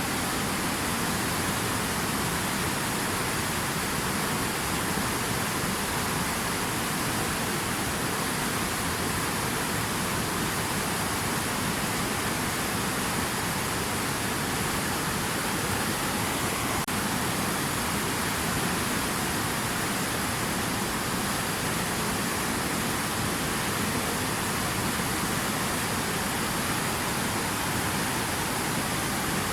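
Steady rushing water, an even, unchanging hiss with no separate drops or splashes.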